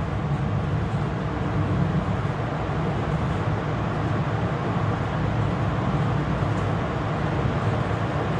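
Moving train with a steady low rumble and no change in pace.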